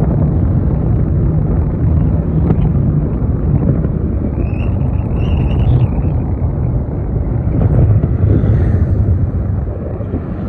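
Wind buffeting the microphone on a moving vehicle, over a steady low rumble of engine and road noise.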